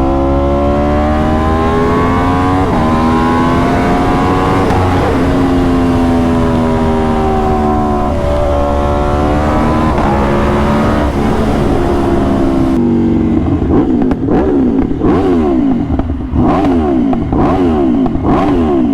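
Aprilia RSV4 V4 sportbike engine pulling hard: the pitch climbs and drops sharply at quick upshifts about three and five seconds in, then climbs again. In the last few seconds the revs rise and fall quickly, over and over.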